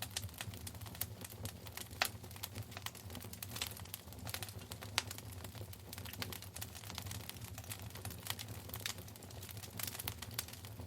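Wood fire crackling in a fireplace: irregular sharp pops and snaps over a low steady rumble, with a louder pop about two seconds in and another about five seconds in.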